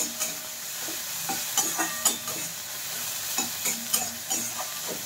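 Chopped tomatoes and spices sizzling in hot oil in an aluminium kadai. A spatula scrapes and knocks against the pan at an irregular pace as they are stirred.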